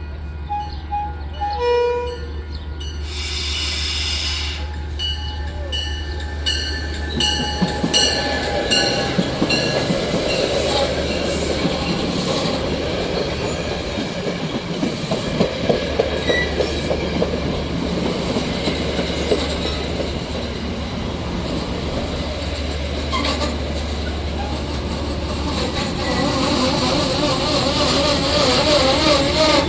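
A train running past, its wheels clattering over the rail joints over a steady low rumble, building louder near the end.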